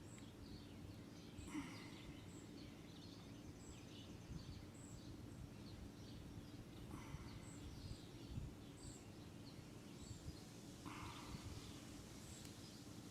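Near silence: faint, high bird chirps every second or so over a low steady hum.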